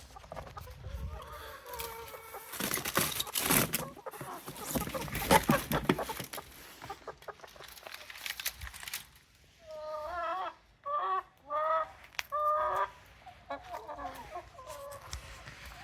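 Chickens clucking, with a run of about four loud, pitched squawks about two-thirds of the way through. The first half holds a string of sharp knocks and rustles, the loudest sounds here.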